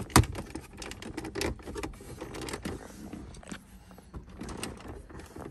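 Plastic car interior trim being handled and fitted back into place: a run of irregular clicks and knocks, the loudest a sharp knock just at the start.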